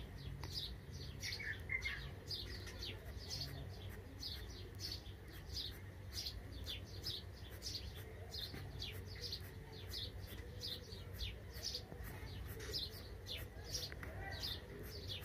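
A small bird chirping over and over: a steady series of short, high, downward-sweeping chirps, about two to three a second, faint over a low hum.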